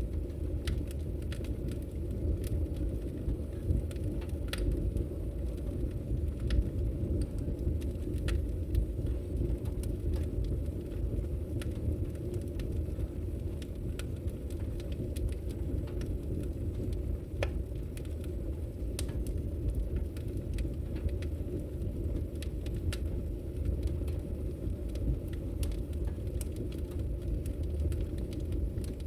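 Wood logs burning in a fireplace, with irregular sharp crackles and pops over a steady low rumble.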